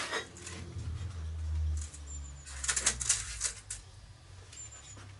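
Small workshop parts being handled and knocked about: a quick run of sharp clatters and rattles from about two and a half seconds to nearly four seconds in, over a steady low hum that drops away about two seconds in.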